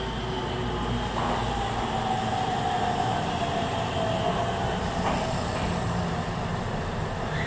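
Tenryu Hamanako Railroad diesel railcar rolling into the station with a steady rumble, and a thin metallic squeal that slowly drops in pitch as it slows.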